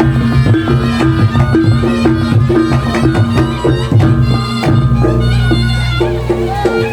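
Reog gamelan music: a shrill, reedy slompret pipe playing a melody over kendang drum strokes and sustained low gong tones.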